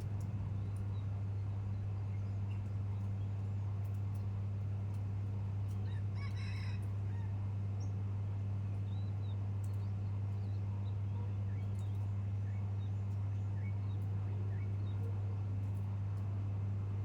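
A steady low hum holds one pitch throughout over a light hiss. About six seconds in, a bird gives one short honking call, and faint chirps come and go.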